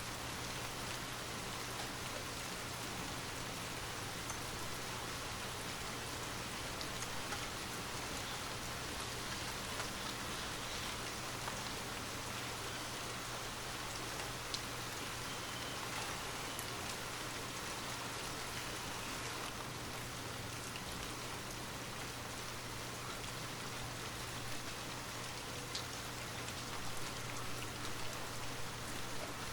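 Steady rain falling, an even hiss with occasional faint drop ticks, over a low steady hum.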